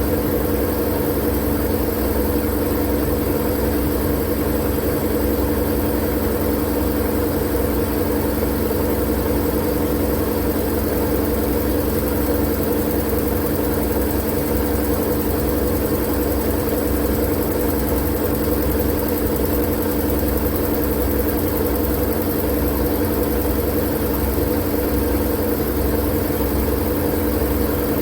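Continuous white-noise drone: a steady, unchanging hiss with a low machine-like hum under it.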